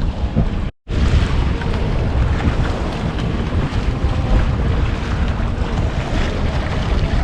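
Wind buffeting the microphone over the rush of sea water around a sailing yacht under way, heaviest in the low end. It drops out to silence for a moment about a second in, then resumes.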